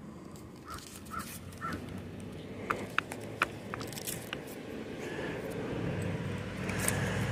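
A bird calls three short times, then come a few sharp clicks, and a low hum builds toward the end.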